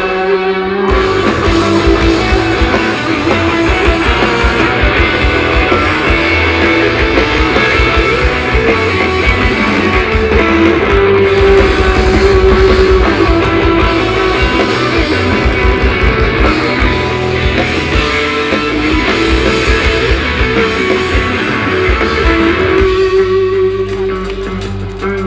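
Live rock band playing an instrumental passage: electric guitars and bass over drums with rapid double-bass-drum kicks. The kick-drum pattern drops out about 23 seconds in, leaving the guitars ringing.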